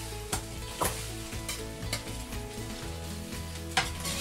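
Fried rice sizzling in a hot stainless steel wok as a metal spoon stirs it, with several sharp scrapes and clicks of the spoon against the pan.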